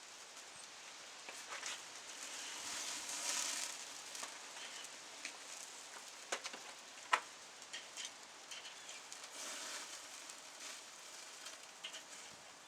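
Thin-sliced pork belly sizzling over a wood campfire, a hiss that swells twice, with the fire crackling and two sharp pops near the middle.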